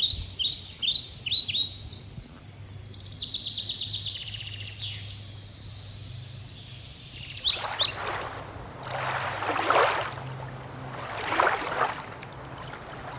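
Birds singing outdoors: a run of sharp repeated chirps, then a fast trill. In the second half two swelling, rushing noises rise and fall over a few faint chirps.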